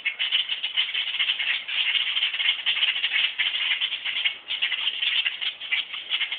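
Adult birds overhead giving rapid, continuous chattering scold calls: alarm calls aimed at a person standing over their fledgling on the ground.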